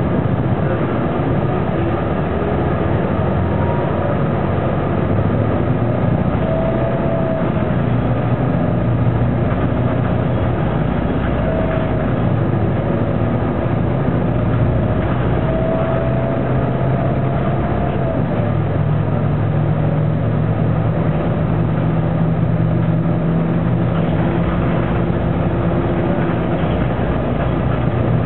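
Detroit Diesel Series 50 inline-four diesel of a 2000 Neoplan AN460 articulated bus running under way, heard from inside the passenger cabin, with a faint whine that wavers in pitch around the middle.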